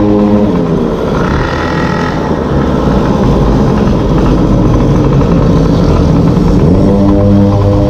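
Small two-stroke engine of a gas-powered stand-up scooter running at a steady speed. About half a second in the throttle eases off and the steady note gives way to a rough, unsteady sound. Near the end the engine note rises back to a steady pitch.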